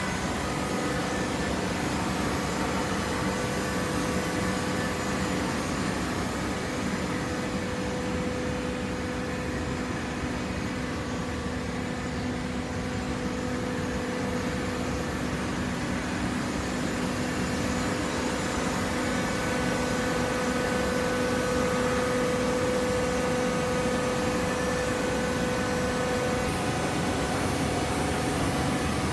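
Horizontal hydraulic waste paper baler running: a steady machine hum with held droning tones over a noisy rush, slightly louder in the second half.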